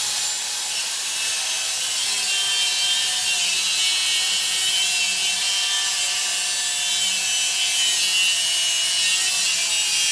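Angle grinder cutting steel: a continuous hiss with the motor's whine wavering slightly in pitch as it works.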